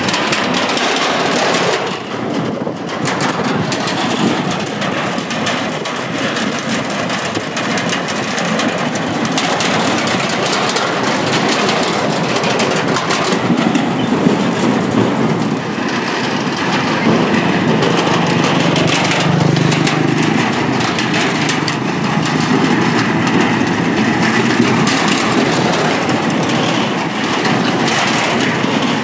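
Steady stream of motorbikes crossing a steel bridge, engines running, with a constant rattling clatter from the deck under the wheels.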